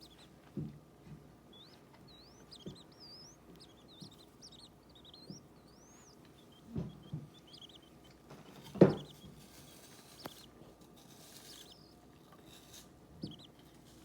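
Day-old quail chicks peeping: many short, high, rising-and-falling peeps, thickest in the first half and again near the end. A few low thumps come in between, the loudest about two-thirds of the way through.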